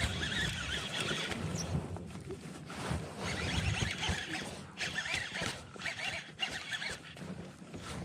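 Fishing reel being wound in, its scratchy whirring coming in spells with short pauses between them, the usual sound of retrieving a topwater lure.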